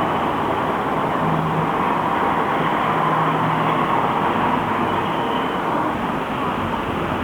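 Interior noise of a Shanghai SK5105KGP electric trolleybus in service: a steady rumble, with a faint low hum that comes and goes.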